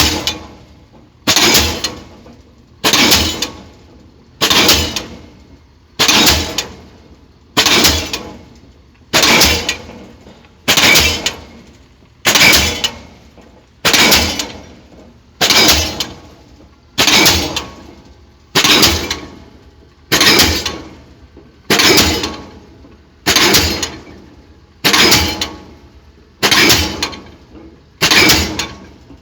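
Pile driver hammer striking a pile in a steady rhythm, about one heavy blow every second and a half, each sharp strike ringing and fading before the next.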